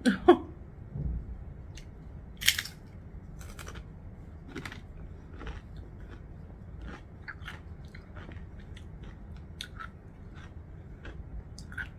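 Chewing and crunching of chips and dip, a run of short crisp crunches with the sharpest about two and a half seconds in.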